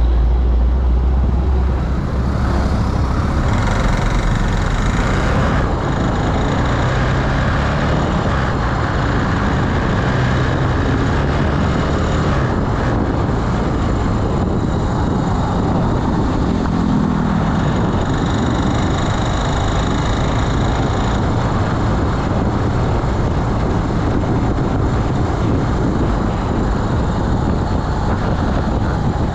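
Riding noise from a carburetted Honda Beat scooter: a steady rush of wind and road noise on the dashboard-mounted camera's microphone, with the single-cylinder engine running underneath, its pitch rising and falling a little.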